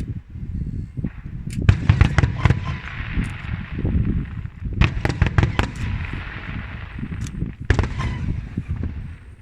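Aerial fireworks shells bursting: clusters of sharp cracks in quick succession, three volleys a few seconds apart, over a continuous low booming rumble.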